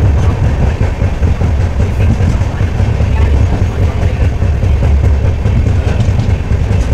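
Gomti Nagar Express passenger coach running on the rails, heard from its open doorway: a steady, loud low rumble of wheels and track.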